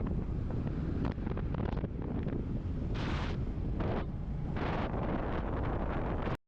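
Wind buffeting the microphone while riding a Royal Enfield Classic 350, with the single-cylinder engine running underneath; a couple of stronger gusts swell in about halfway through.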